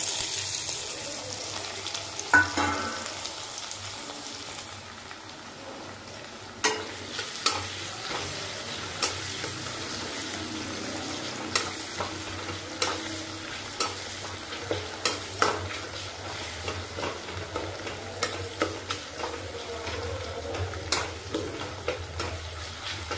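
Chopped onions, green chillies and tomatoes sizzling in hot oil in a metal kadhai, stirred with a long metal spoon that clinks and scrapes against the pan. There is one clank about two seconds in, and from about six seconds in the clinks of the spoon come often and irregularly over the steady sizzle.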